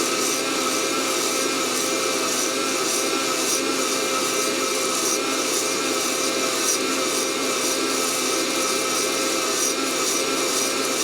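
Fresh Roast SR800 hot-air coffee roaster on its cooling cycle: the fan motor runs steadily with a constant whine, blowing air through the freshly roasted beans.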